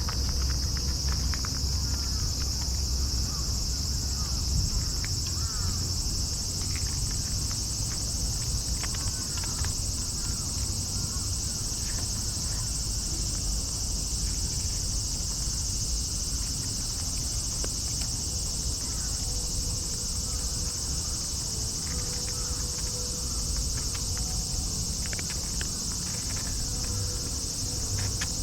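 Steady, high-pitched insect chorus outdoors, with a low rumble beneath and scattered short chirps.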